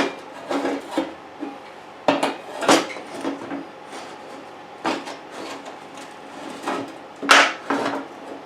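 Irregular knocks and clatter of metal tools and parts being handled and set down on a workbench, with a few sharper strikes.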